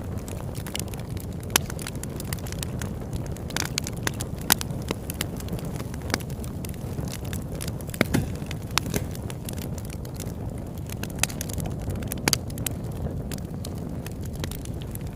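Campfire burning: a steady low rush of flame with frequent sharp crackles and pops from the wood, scattered irregularly, a few of them much louder than the rest.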